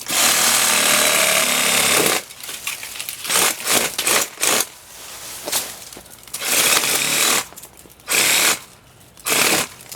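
Ryobi P516 18-volt cordless reciprocating saw cutting through palm tree branches: one long run of about two seconds, then a string of shorter bursts as the trigger is squeezed and released.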